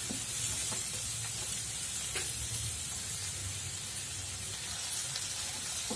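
Chopped tomatoes, onions and cashews sizzling in a little oil in a nonstick frying pan: a steady, gentle hiss as the tomatoes cook down.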